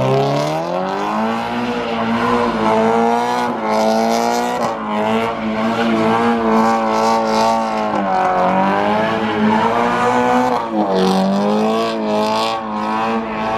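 A car engine held at high revs, its pitch wavering and dropping briefly twice before climbing again, with tyre squeal over it. This is typical of a car doing donuts or a burnout.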